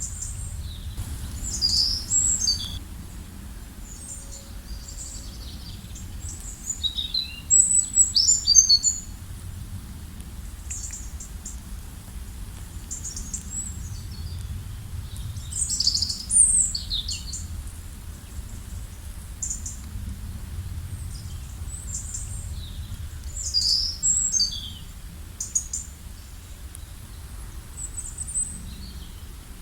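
Wild birds chirping and twittering in short, high-pitched calls, busiest around 2, 8, 16 and 24 seconds in, over a steady low outdoor rumble.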